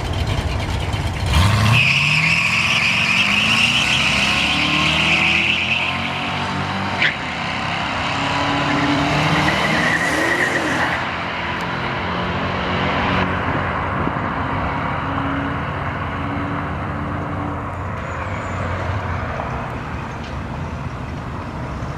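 Drag cars launching down the strip: engines rev up hard and climb through the gears, with tyre squeal for the first few seconds, and the sound slowly fades.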